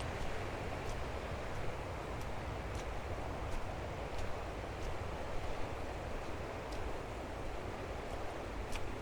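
Footsteps crunching in snow at a steady walking pace, about one step every two-thirds of a second, over a constant rushing outdoor background noise.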